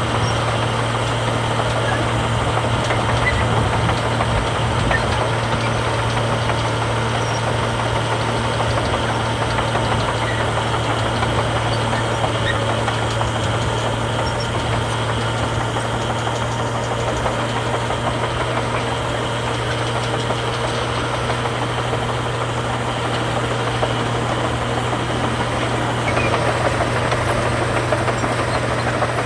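Diesel engine of heavy earthmoving machinery running steadily, getting a little louder near the end.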